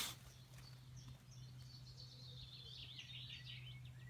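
Small birds chirping, with a quick twittering run of notes in the second half, over a faint steady low hum.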